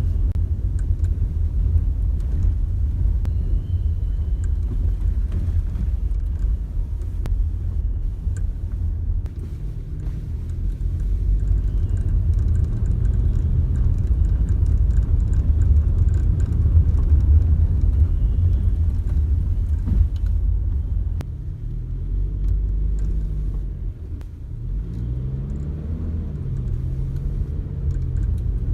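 Cabin rumble of a Toyota Innova Touring Sport petrol automatic on the move, with the engine note rising and falling near the end. Faint light rattling clicks come from the dashboard, which the owner traces to the left A/C vent area when accelerating uphill.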